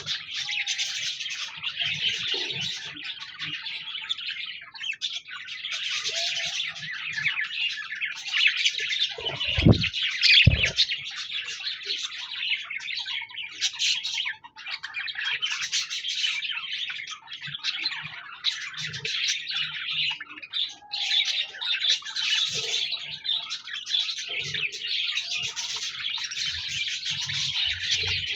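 Several pet budgerigars chattering and warbling continuously. Two low thumps about a second apart, about ten seconds in, are the loudest sounds.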